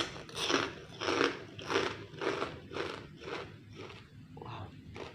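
A person chewing a mouthful of food in a steady rhythm, a bit under two chews a second, louder in the first three seconds and softer after.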